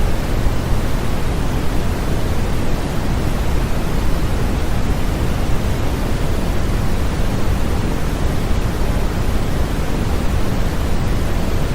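Continuous synthetic white noise, an even, unchanging hiss heavier in the low end than the high.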